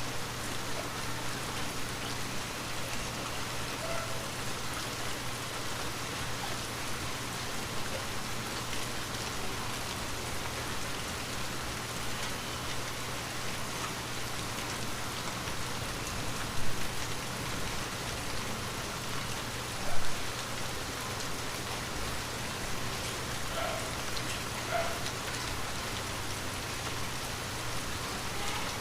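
Light rain falling steadily in an even patter, with two louder knocks a few seconds apart past the middle.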